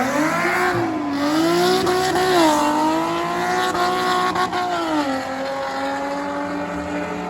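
Car engine running hard in an enduro race on a short oval, its pitch rising and falling, then dropping about five seconds in and holding steady.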